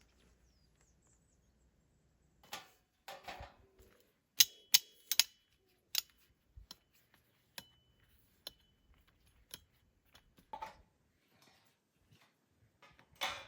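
Irregular sharp clicks and knocks of hard objects being handled, the loudest cluster a few seconds in, some leaving a brief faint ring.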